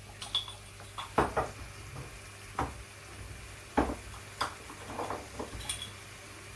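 A utensil clacking and scraping against a pan as chicken is stirred with seasoning, a string of irregular knocks over a faint steady sizzle of frying.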